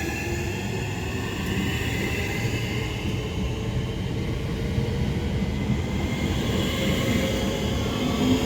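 Class 465 Networker electric multiple unit moving through the station: a whine of several tones slowly gliding in pitch from the traction motors over a steady rumble of wheels on the rails.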